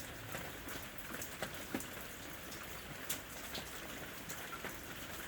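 Light rain falling steadily, with single drops landing as sharp ticks every so often.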